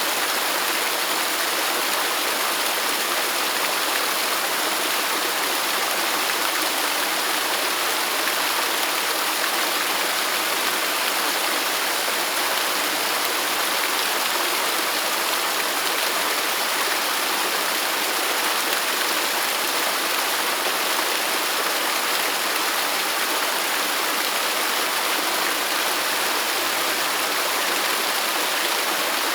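Waterfall: steady rushing and splashing of falling water, even and unchanging, mostly in the hissy upper range with little deep rumble.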